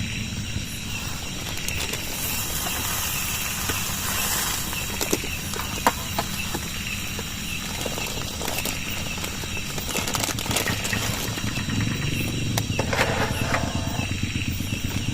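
Steady rain falling, with scattered drops ticking on a tarp or cookware over a continuous low rumble.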